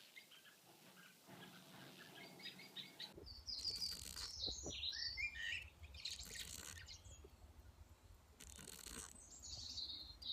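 Wild birds chirping and singing, with quick high calls that slide up and down in pitch, over a faint low rumble and a few brief bursts of noise.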